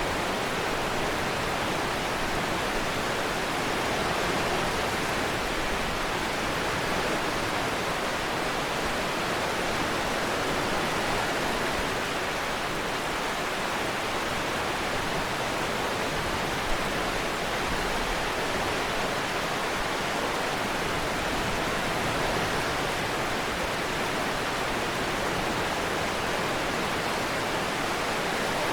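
Steady, even hiss of rainfall, with no clear rise and fall of waves in it. One brief tap about halfway through.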